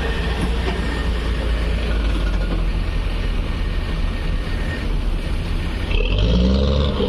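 Heavy truck engine running with a steady deep rumble; about a second before the end the engine note rises as it revs.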